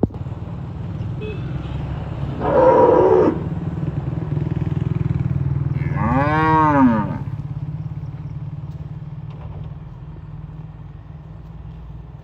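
Cattle mooing: a rough, hoarse call about two and a half seconds in, then a long moo about six seconds in that rises and falls in pitch, over a steady low hum.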